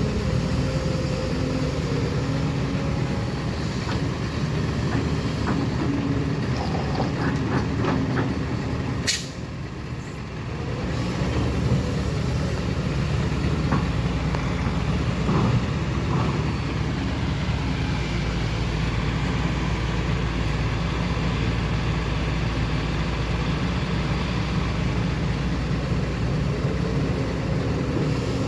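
Heavy diesel machinery running steadily, dump truck and excavator engines at work on a pond dig. A sharp click about nine seconds in is followed by a brief drop in level.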